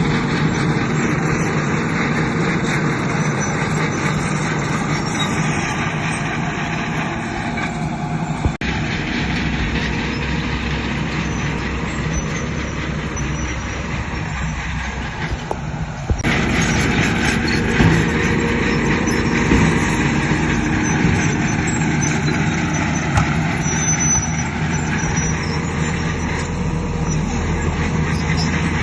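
Heavy diesel earthmoving machinery (bulldozer and dump trucks) running steadily under work, with abrupt changes in the sound about eight and a half and sixteen seconds in.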